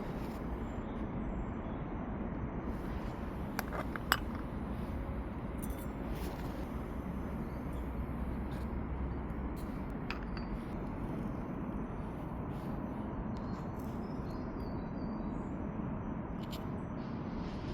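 A few sharp clinks of small hard objects, the loudest about four seconds in, over a steady outdoor background noise.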